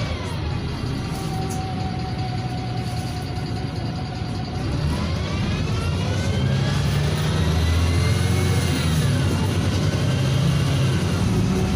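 NefAZ 5299 city bus's Cummins ISBe diesel and Voith automatic gearbox running under way, a low rumble with a whine over it. The whine holds level, rises in pitch from about five seconds in as the bus gathers speed, and drops again a few seconds later.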